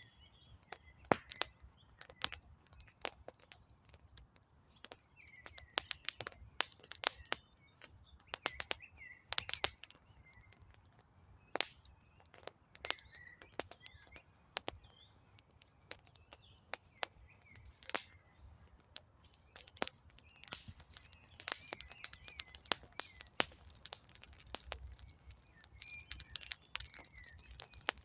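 Wood fire crackling with irregular sharp pops and snaps, while small birds chirp in the background.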